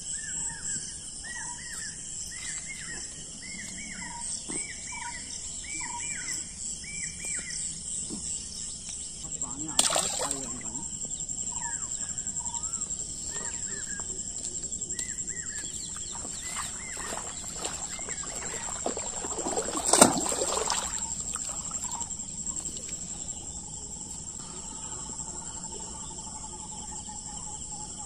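A bird calling over and over in short down-slurred notes, heard through roughly the first seven seconds and again in the middle, over a steady high-pitched hiss. Two sharp knocks cut in, about ten seconds in and, louder, about twenty seconds in.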